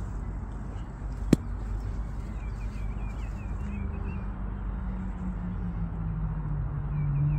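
Small birds chirping against a low outdoor rumble, with one sharp click about a second and a half in. A low steady hum comes in about halfway and grows louder toward the end.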